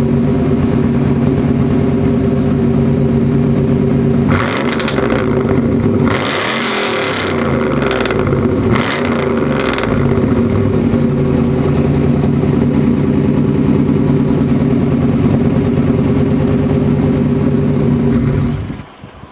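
1995 Pontiac Trans Am's LT1 small-block V8 idling through a muffler-delete exhaust with the catalytic converters still in place. It is revved several times about four seconds in, settles back to a steady idle, and stops shortly before the end.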